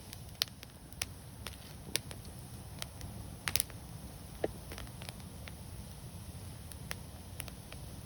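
Wood fire burning, with irregular sharp crackles and pops over a low steady rumble of flame. The loudest pops come about half a second, two seconds and three and a half seconds in.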